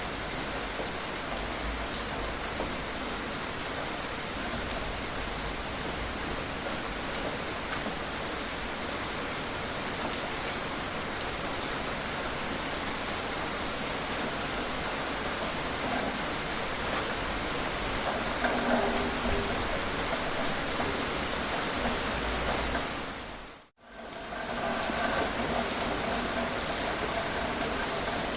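Steady rain falling. About three-quarters of the way through, it dips to silence for a split second and comes straight back.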